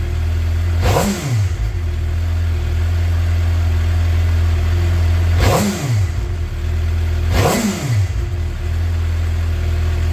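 2012 Suzuki GSX-R750's inline-four on its stock exhaust, idling warm with three quick throttle blips that rise and fall back to idle.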